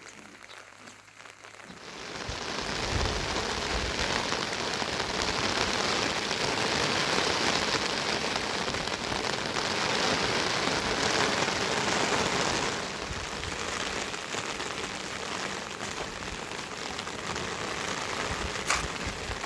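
Heavy rain falling, a dense steady hiss that comes in abruptly about two seconds in and eases slightly about two-thirds of the way through. A single sharp tick sounds near the end.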